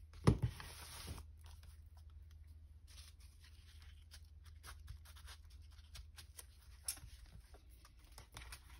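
Paper and card being handled on a craft table: a sharp knock, then about a second of rustling, followed by scattered small rustles and taps.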